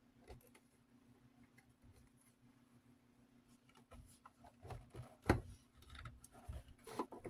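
Scattered small clicks, taps and knocks of a screwdriver working at the parts of a metal desk fan during disassembly. They begin about four seconds in, with the loudest knock about a second later, over a steady low hum.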